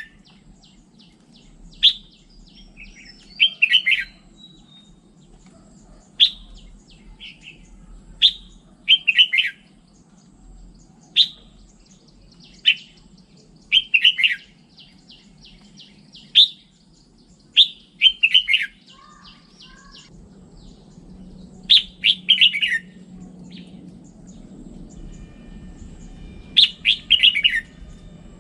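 Red-whiskered bulbul singing: short, sharp warbling phrases, one every one to two seconds, over a faint low hum.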